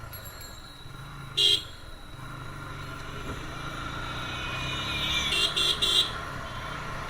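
Motorcycle riding through traffic, a steady engine and road hum growing gradually louder, cut by short horn toots: one at about a second and a half in, then three quick toots near the end.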